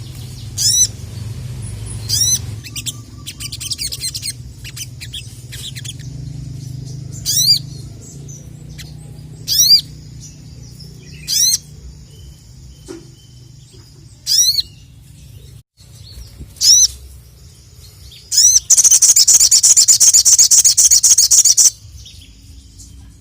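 Sogok ontong (sogon) calling: single sharp high chirps repeated every couple of seconds, then a loud, rapid trill of about three seconds near the end.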